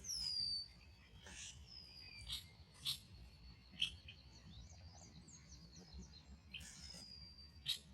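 Red-winged blackbirds calling: thin, high whistles that slide down in pitch, the loudest right at the start, mixed with sharp chip notes every second or so.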